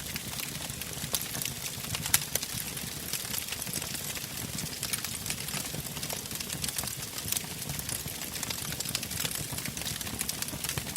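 Wood fire burning in a fireplace: irregular sharp crackles and pops over a steady hiss and a low rumble of flame.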